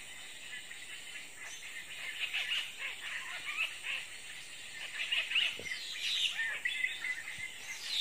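Small birds chirping and calling over and over, many short high chirps with some quick falling notes.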